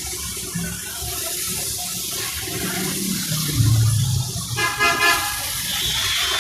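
Heavy rain hissing steadily on the road, with a vehicle horn honking briefly about three-quarters of the way through.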